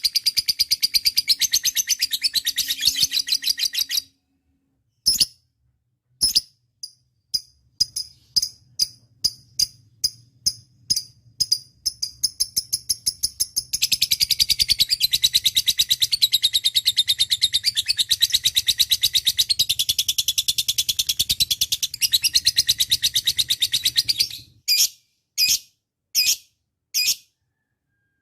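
Lovebird chattering: long, very rapid high-pitched trills, the first breaking off about four seconds in and a longer one running for about ten seconds in the second half, with single sharp chirps between them that come faster and faster before the long trill.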